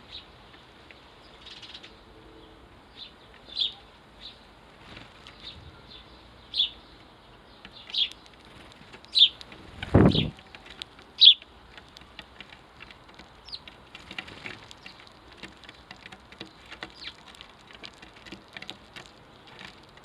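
Sparrows chirping, with short single cheeps every second or two. A single low thump comes about halfway through, and light ticking and tapping fills the second half.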